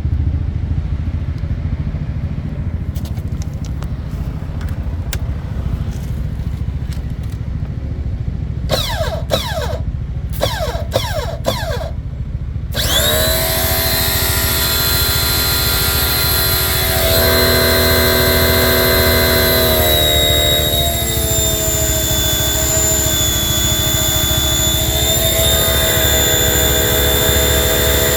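High-pressure washer with a low hum underneath. Its motor spins up briefly four times with rising whines, then from about thirteen seconds in it runs steadily with a high whine. Its pitch shifts a little twice, as the pressure setting is changed.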